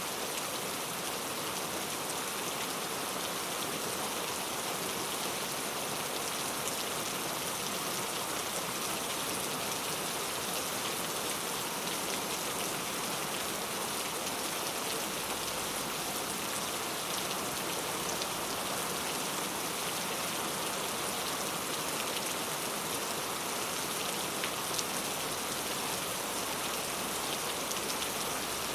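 Heavy rain falling steadily, a dense hiss with fine drop ticks and no change in strength.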